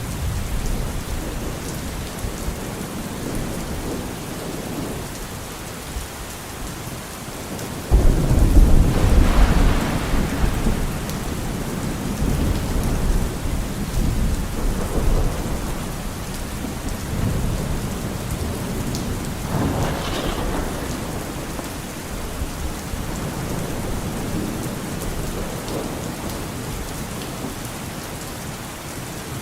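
Steady rain falling, with thunder: a loud thunderclap breaks out suddenly about a third of the way in and rumbles on for several seconds, and a second, weaker crack follows about two-thirds of the way in.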